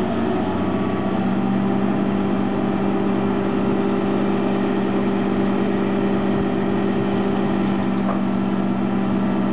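Heavy vehicle engine running steadily at a constant, raised speed, a truck or crane engine on a construction site.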